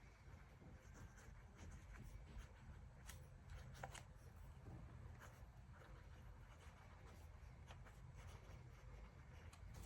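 Faint handwriting on paper: soft, irregular scratching strokes over a low room hum.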